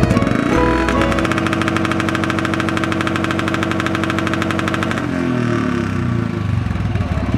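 Royal Enfield Bullet's single-cylinder engine running at raised revs with a rapid, even firing beat. About five seconds in the revs drop and it settles into a slower, uneven beat toward idle.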